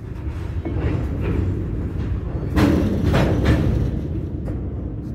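Freight train's covered hopper cars rolling past close by: a steady, heavy rumble of steel wheels on the rails, with a few loud metallic clanks about two and a half to three and a half seconds in.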